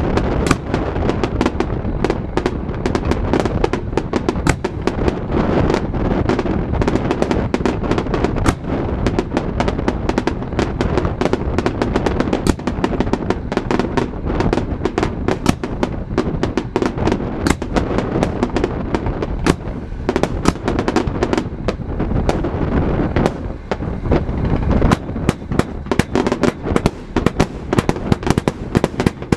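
Aerial fireworks going off in a rapid, continuous barrage: many bangs and crackles a second over a steady rumble of booms, turning into sharper, more distinct cracks near the end.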